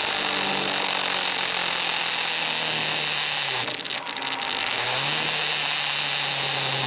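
KTM RC 390's single-cylinder engine under way at road speed. Its note sinks slowly, dips briefly in level about four seconds in, then climbs back and holds steady, over a constant hiss of wind and road noise.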